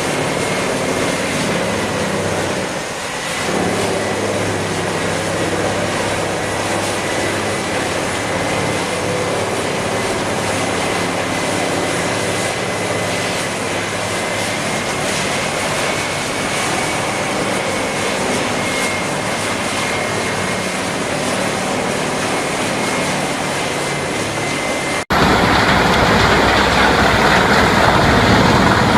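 Heavy machinery running steadily, with a thin, steady high whine over it. About 25 seconds in it cuts suddenly to a louder, rougher machine noise.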